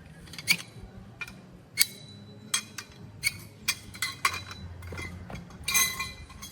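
Cookware and utensils clinking and knocking: a dozen or so sharp, irregular knocks, several with a brief metallic or glassy ring, bunching into a louder clatter near the end.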